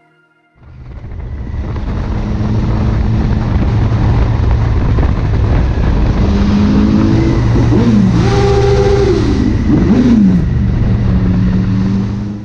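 Motorcycle engine running while riding, under a heavy low wind rumble on the microphone. It starts suddenly about half a second in. The engine pitch falls and rises a few times about two-thirds of the way through.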